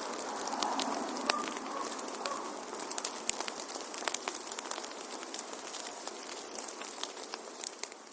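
Wood fire crackling in a fireplace: a steady hiss of burning with frequent sharp pops and snaps, one louder snap about a second in.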